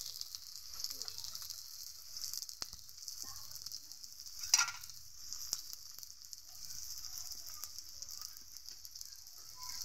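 Battered jute-leaf fritters sizzling steadily in shallow oil in an iron karahi, with small ticks and one sharp crackle about four and a half seconds in.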